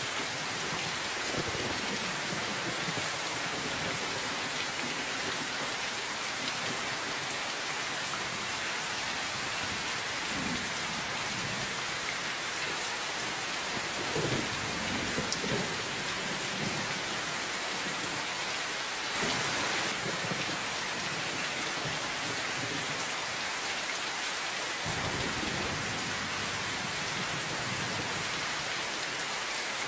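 Steady rain falling, an even hiss throughout, with low rumbles of thunder rolling in about a third of the way through and again around the middle.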